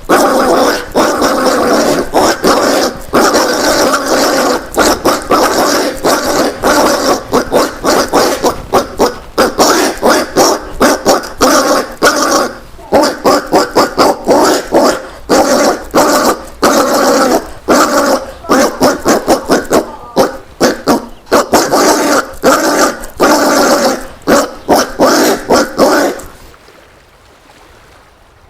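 Collared peccaries (caititu) giving a dense series of short grunts and barks, several a second. The calls stop abruptly near the end, leaving only a faint hiss.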